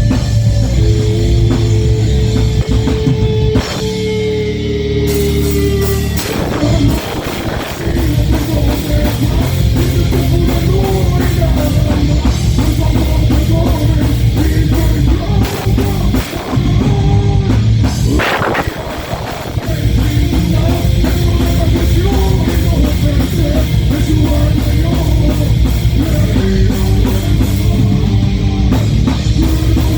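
Heavy metal band playing live: distorted electric guitars, bass and drum kit at full volume. A long note is held in the first few seconds before the band drives on, with a brief break about eighteen seconds in.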